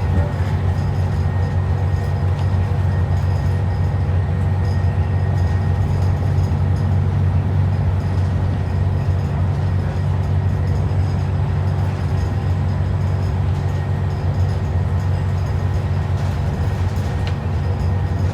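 ADL Enviro 400 double-decker bus running, heard from inside: a steady low engine drone with a few faint steady whining tones above it.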